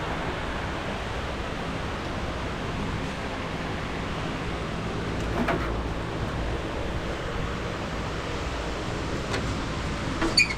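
Steady rushing of wind on the microphone, with a faint low steady hum underneath and a few faint ticks.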